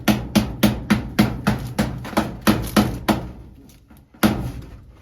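Hammer blows in a quick, steady run of about three a second, each with a short ringing note. They fade and stop about three seconds in, then one more blow comes near the end.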